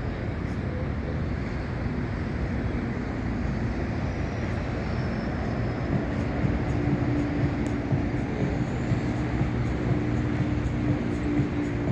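Boeing 767-300 jet engines at takeoff power: a loud, steady roar, with a steady hum of several tones coming in about halfway through.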